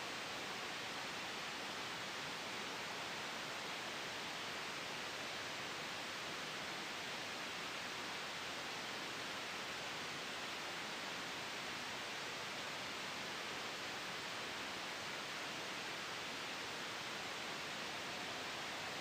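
Steady, even hiss of sleep white noise with no change in level, brightest in the upper-middle range.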